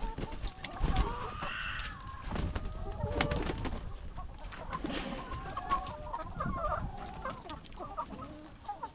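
A flock of laying hens clucking, many short overlapping calls, with one louder, higher call about one and a half seconds in. A few low thumps sound among them, the loudest about a second in.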